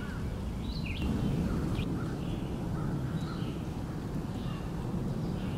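Short scattered bird calls over a steady low rumble of stormy weather.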